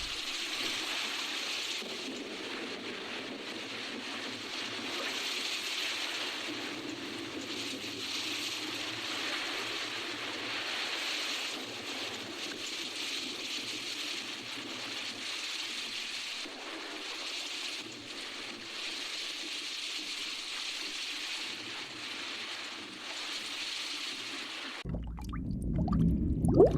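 Rushing-water sound effect: a steady churning hiss like rough sea water. It cuts off suddenly near the end and gives way to a louder, lower bubbling.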